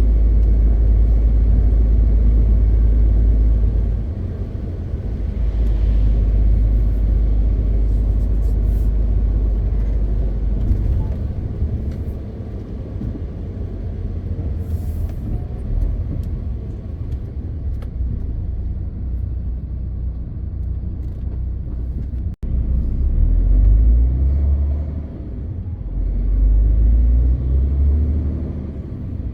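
MAN TGX 520 truck's diesel engine running on the move, a steady low rumble that eases about four seconds in and again later, with a brief dropout two-thirds of the way through.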